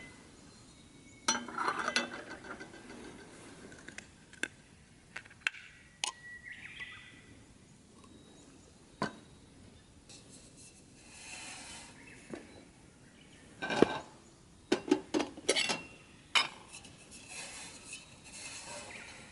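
Irregular clinks and knocks of camp cookware and utensils being handled and set down, some with a short metallic ring, with a cluster of quick clinks about two-thirds of the way through.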